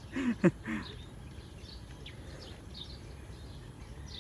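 Scattered faint bird chirps over steady outdoor background noise. The chirps follow a brief voice sound at the very start.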